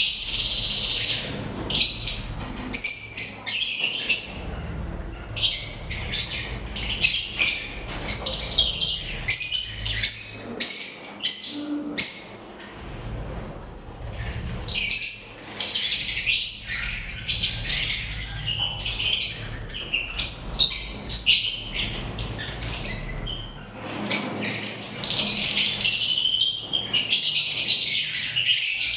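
Pet lovebirds chirping and squawking in a near-continuous stream of sharp, high-pitched calls, coming in busier bursts every few seconds.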